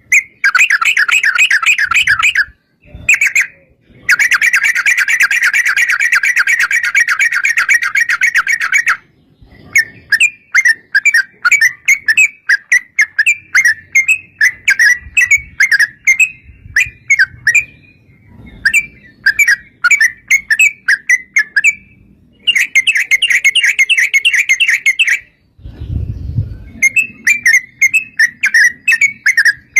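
Yellow-vented bulbul song: long, very rapid trills alternating with broken runs of quick chattering notes. A low dull thump is heard about 26 seconds in.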